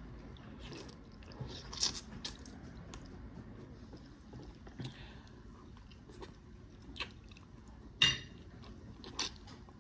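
A person chewing and smacking their lips while eating fish, with scattered short clicks and smacks, the loudest about eight seconds in.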